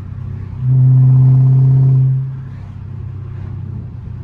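Straight-piped 6.4-litre (392) HEMI V8 of a Dodge Charger Scat Pack droning at a steady engine speed. It swells loud for about a second and a half under throttle, then drops back to a quieter cruising rumble.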